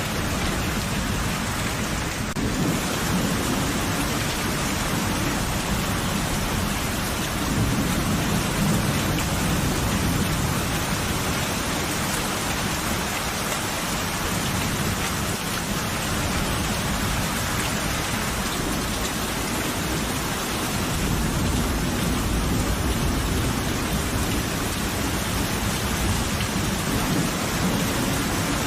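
Steady heavy rain with low rolling thunder rumbling in the background, swelling twice.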